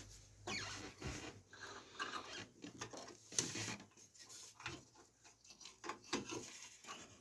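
Hands handling PC power cables and parts in a computer case: irregular rubbing and scraping with light clicks and knocks.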